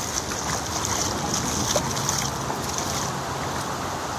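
Floodwater rushing through a street, a steady noise of flowing water with a fizzing splash layer that eases a little after two seconds in.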